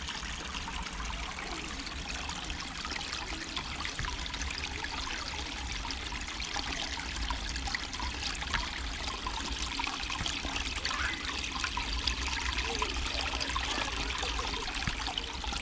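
Water from a small pondless garden waterfall trickling and splashing steadily over stones, over a steady low rumble.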